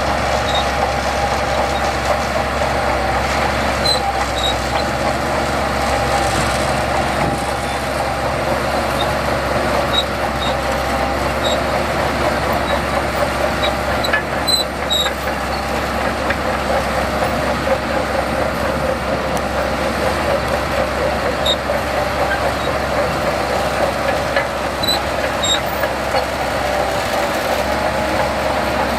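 Heavy earthmoving machinery running steadily: the diesel engines of bulldozers and dump trucks working sand, with small scattered clinks over the engine noise.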